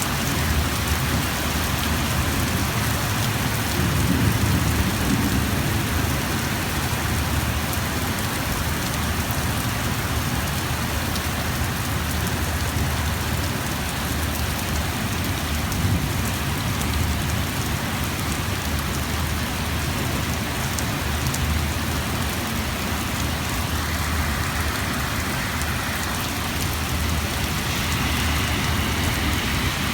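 Heavy rain pouring steadily and hitting surfaces as a dense, even hiss, with a low rumble swelling briefly about four seconds in.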